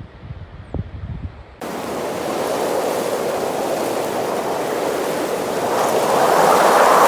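Steady rushing of flowing water that starts abruptly about one and a half seconds in and grows louder toward the end. Before it there is a low rumble of wind on the microphone with a few soft thumps.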